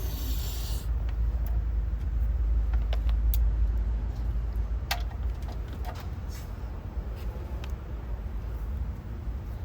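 Scattered metallic clicks and clinks of a socket wrench and extension working on an oil pan drain plug, over a steady low rumble.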